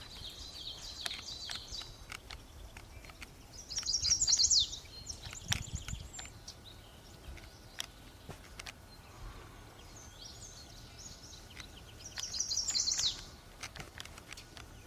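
A small songbird singing a short, quick, high trilled phrase that ends in a falling note. The phrase comes twice, about eight seconds apart, with softer high chirping at the start and scattered faint clicks between.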